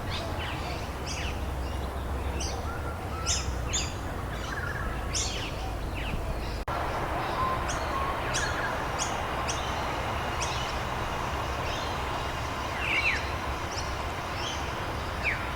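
Small birds chirping in short, repeated calls over a steady hiss of rain. The sound drops out for a moment about halfway through.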